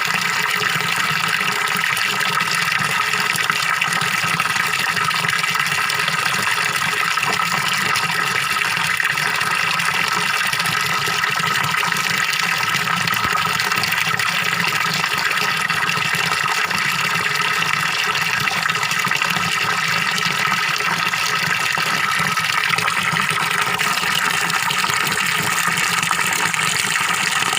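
Small waterfall pouring steadily into a fish pond, a continuous even splashing and gurgling of falling water.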